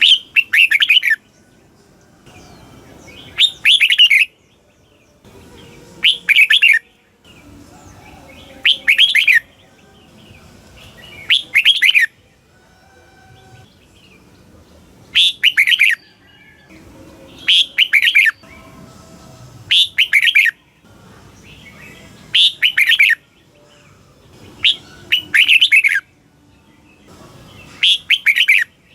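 Red-whiskered bulbul singing: a short, loud, chattering phrase of about a second, repeated every two to three seconds, about eleven times.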